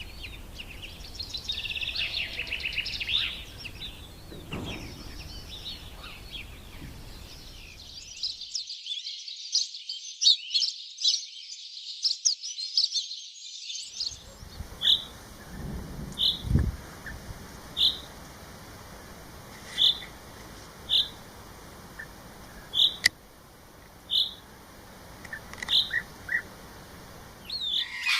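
Small birds chirping. First comes a busy chatter of rapid high chirps, then a single bird repeating one short high chirp every second or two.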